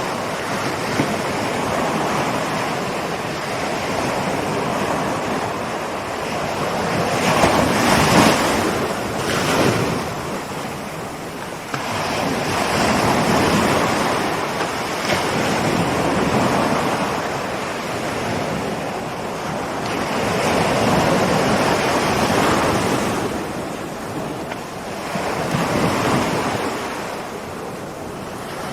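Ocean waves rolling in and breaking on a shore, the surf swelling and falling back in slow surges every several seconds, the biggest about a quarter of the way in.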